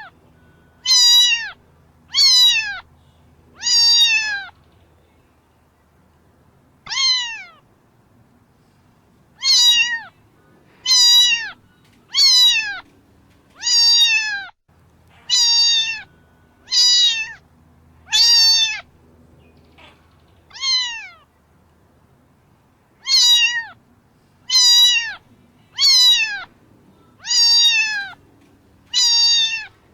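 Cat meowing over and over, high-pitched mews that fall in pitch, about one every one to two seconds with a couple of short pauses.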